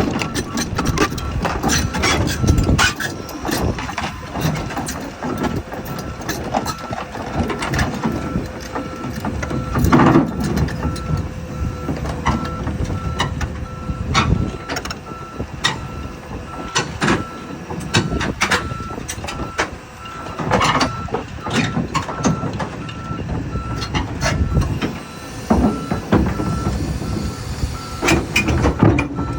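Komatsu PC228 excavator's travel alarm beeping steadily over its diesel engine, with repeated sharp clanks and knocks from the steel tracks as the machine travels, being driven onto a low-loader trailer.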